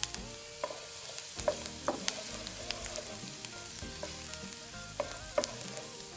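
Chopped garlic and ginger sizzling and crackling in hot oil in a nonstick frying pan, stirred with a wooden spoon. A steady hiss is broken by frequent sharp pops.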